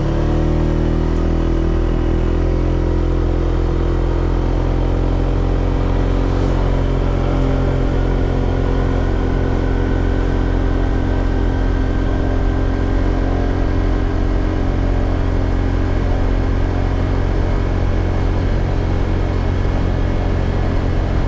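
Honda PCX scooter's single-cylinder engine, fitted with a replacement muffler, catching right at the start and settling within a couple of seconds into a steady idle.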